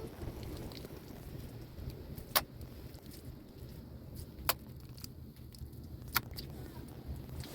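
Three sharp clicks, roughly two seconds apart, over a steady low rumble.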